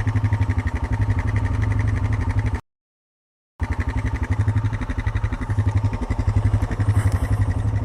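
Honda ATV's single-cylinder engine idling steadily with an even pulse. The sound drops out completely for about a second partway through, then the same idle resumes.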